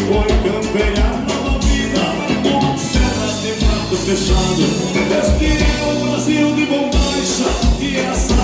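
Live gaúcho dance-band music with a steady bass-drum beat of about two thumps a second under accordion-led instrumental lines.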